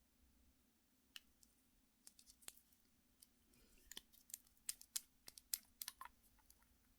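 Irregular small clicks and taps of small objects being handled, sparse at first and coming thick and fast through the second half.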